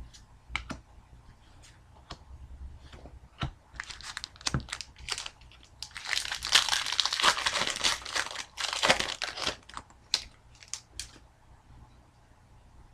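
Foil wrapper of a hockey card pack being torn open and crinkled. The crinkling is loudest and densest in the middle, with a few light clicks of cards being handled before and after.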